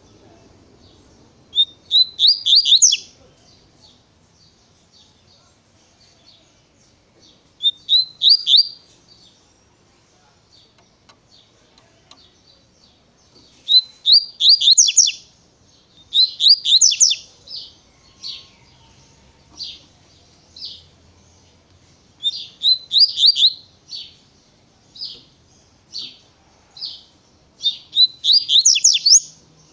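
Double-collared seedeater (coleiro) singing its 'tui tui' song: about six loud bursts of fast, high whistled notes a few seconds apart, with single short notes between the later bursts.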